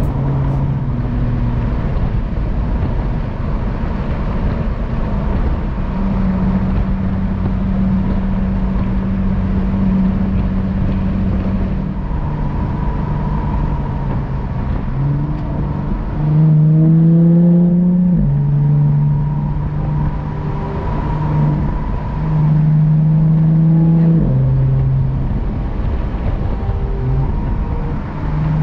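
Jaguar F-Type S's supercharged V6 engine pulling the car along: a steady cruising note at first, then from about halfway the engine accelerates hard, its pitch climbing and dropping back with each upshift.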